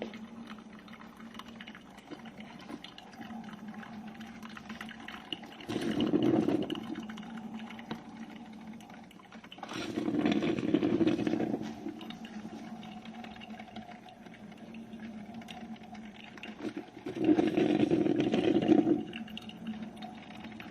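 GEVI 12-cup drip coffee maker brewing: hot water surges through it in three bursts a few seconds apart, over a steady low hum.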